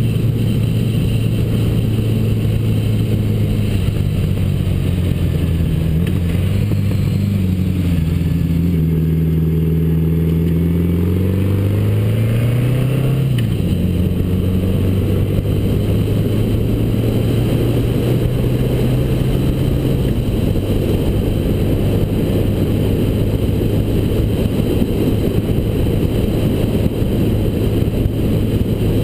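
1979 Honda GL1000 Gold Wing's flat-four engine running at a steady cruise, with wind noise over the microphone. About six seconds in the engine note falls as the bike slows, then climbs again under acceleration until a gear change about thirteen seconds in drops the pitch, and it settles back to a steady cruise.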